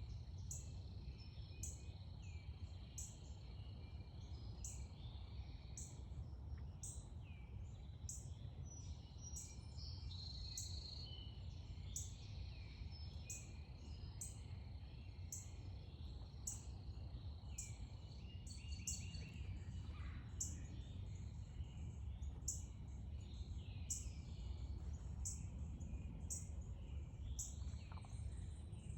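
Backyard birds chirping and calling, with a short high insect chirp repeating about once a second and a steady high insect drone behind them. A low rumble lies under it all.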